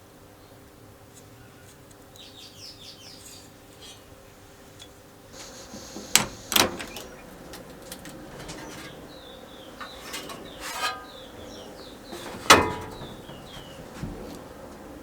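Several sharp knocks and clicks, as of hard objects set down or struck, the loudest late on. Between them are runs of short, high, falling bird chirps.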